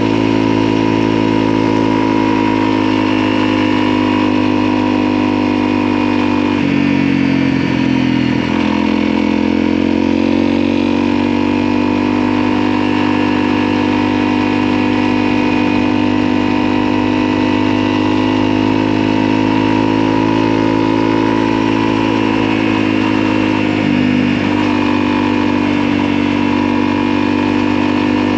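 Motorcycle engine running steadily under way, its pitch dropping and then climbing back about seven seconds in and again near the end, as with a shift or a change of throttle.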